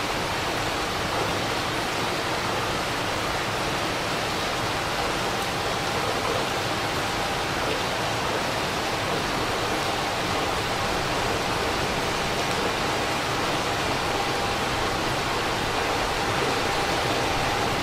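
Heavy rain falling steadily, a constant even hiss. A faint steady whine sits underneath, a little stronger in the second half.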